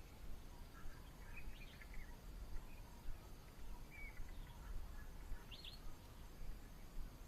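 Birds calling in short, scattered chirps and whistles over a low, steady background rumble.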